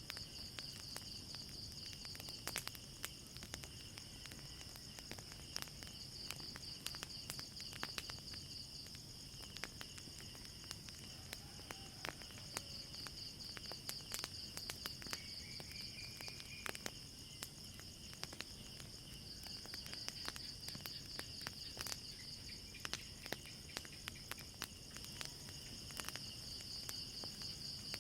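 Night crickets chirring steadily in a high, pulsing trill, with the irregular snaps and pops of a crackling wood fire.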